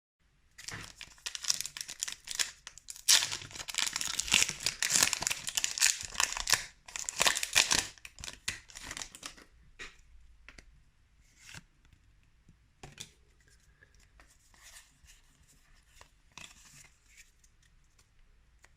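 Foil wrapper of a Pokémon TCG booster pack being torn open and crinkled for several seconds, then quieter scattered rustles and clicks of cards being handled.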